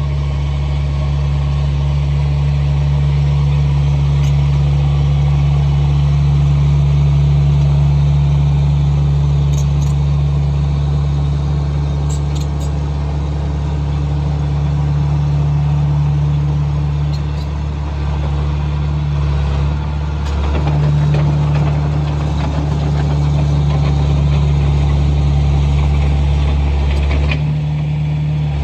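Komatsu bulldozer's diesel engine running steadily while grading dirt, with a short dip in engine note about two-thirds of the way through and a few light clicks.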